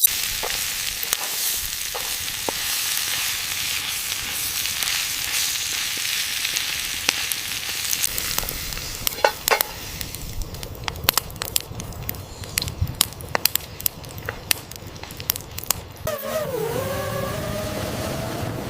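Food sizzling in a hot pan over a campfire. Through the second half there are many sharp crackles and pops, and near the end a wavering, pitched whine comes in.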